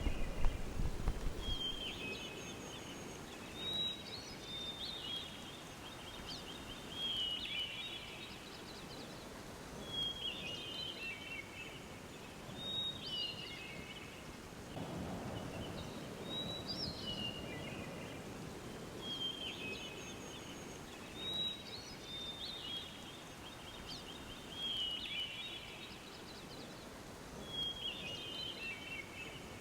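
A bird singing the same short phrase again and again, every two to three seconds: a high note falling away into a quick trill. Beneath it is a faint outdoor hiss, with a low rumble swelling about halfway through.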